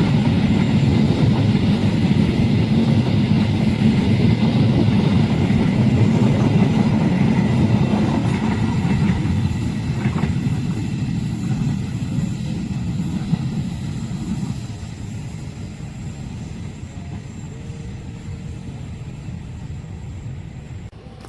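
A train running past on the rails, a steady low rumble of wheels on track that begins to fade about eight seconds in and drops off sharply around the middle as the train moves away.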